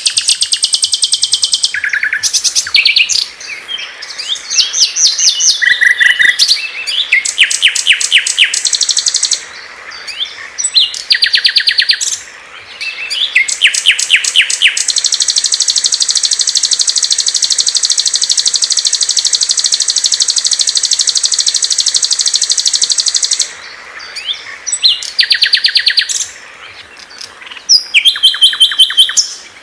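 Small songbirds singing loudly in rapid, high trills and chirps, several different songs overlapping and taking turns. Near the middle, one fast trill runs for about eight seconds without a break.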